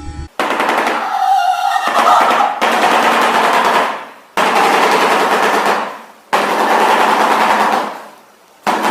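Harsh, rapidly pulsing rattling bird calls, given in a string of bouts of about one and a half to two seconds each with short breaks between them.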